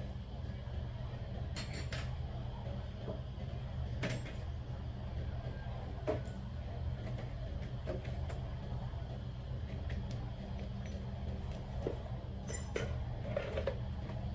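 Steady low mechanical hum with a few light clicks and clinks scattered through it.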